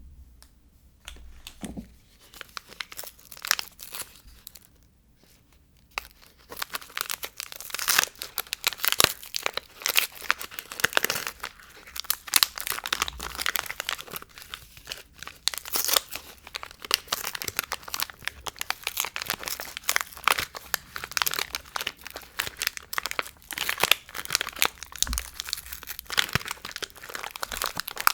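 Soap packaging being unwrapped by hand: the wrapper crinkles and tears. There are a few scattered rustles at first, then dense, continuous crinkling from about six seconds in.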